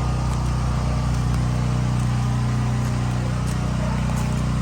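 An engine running steadily at an even pitch, a constant low hum with no change in speed.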